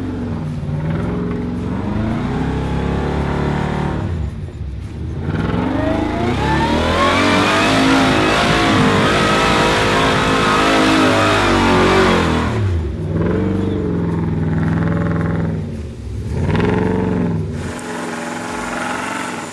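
Off-road Jeep engine revving hard in repeated pushes, pitch climbing and falling, with one long, loudest run of revs in the middle.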